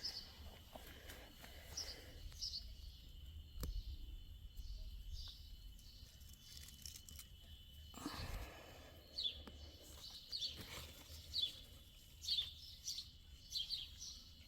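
Small birds chirping: short, high, repeated chirps that come more often in the second half. A brief rustle about eight seconds in.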